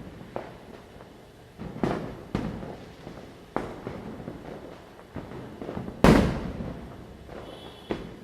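Diwali firecrackers bursting at irregular intervals, some far off and some close, each bang trailing off in an echo. The loudest goes off about six seconds in, with a long rolling tail.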